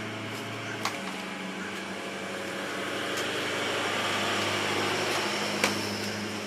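A steady low machine hum with a rushing noise that swells up in the middle and fades near the end, and a couple of light clicks.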